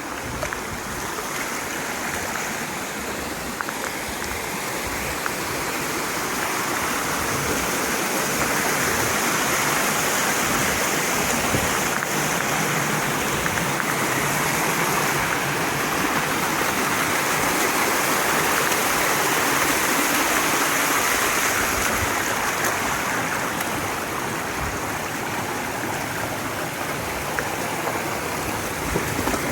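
Mountain stream rushing over rocks, a steady loud rush of water that swells a little in the middle.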